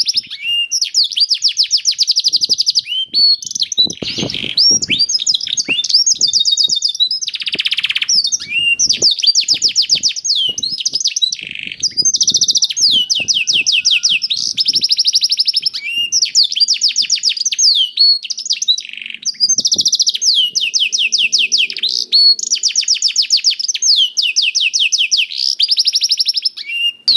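Domestic canary singing in full song: fast trills of rapidly repeated high notes, changing to a new trill every second or so with brief breaks between phrases.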